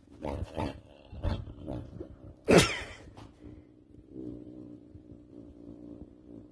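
A cat's short growling calls, the loudest and sharpest about two and a half seconds in, followed by a low steady rumble.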